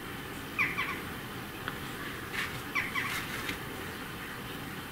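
A bird chirping quietly: two pairs of short chirps, each falling in pitch, about two seconds apart, with a few faint clicks.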